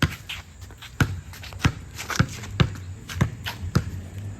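A basketball being dribbled, thudding against the floor about twice a second in an uneven rhythm, mixed with footsteps.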